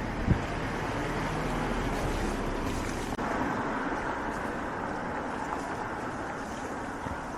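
Steady outdoor street noise, an even hiss like traffic and wind, with one short low thump just after the start.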